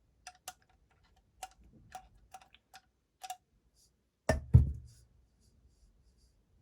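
Small metal engine parts clicking and tapping lightly several times, then two heavy knocks a quarter second apart about four seconds in, as a part that won't come loose is worked on.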